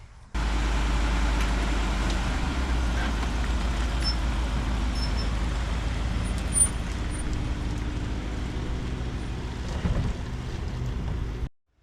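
Truck driving on the road: a steady rumble of engine and road noise that starts suddenly and cuts off suddenly near the end.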